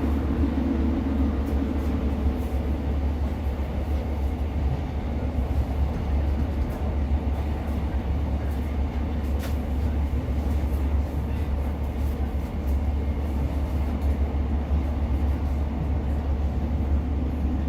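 Class 150 diesel multiple unit running along the line, heard from inside the carriage: a steady low rumble of the diesel engine and the wheels on the rails, with a few faint clicks.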